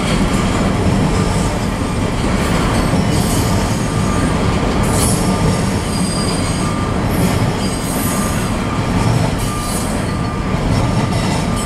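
Double-stack intermodal well cars rolling past, making a steady rumble of steel wheels on rail, with short high-pitched wheel squeals now and then.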